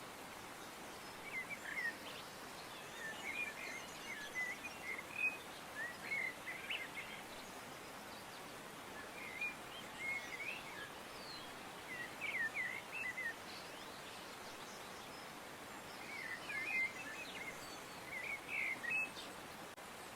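Songbirds chirping in short clusters of quick chirps every few seconds, over a steady soft background hiss.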